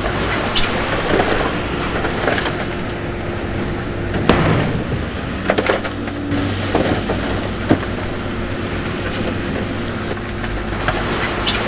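Heavy diesel construction machinery running steadily, with rough clattering and scattered sharp knocks of stone and rock. One louder knock comes about four seconds in.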